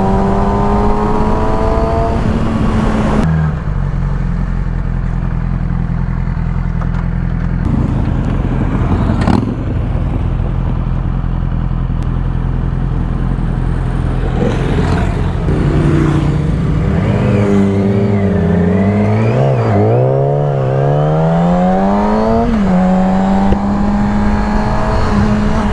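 Onboard motorcycle engine running under way. Its pitch drops about three seconds in, holds steady, then rises and falls a few times later on as the bike slows and speeds up again.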